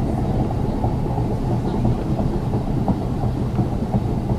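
Electric tram running along the track: a steady low rumble of wheels on rails and motors, with a few light clicks.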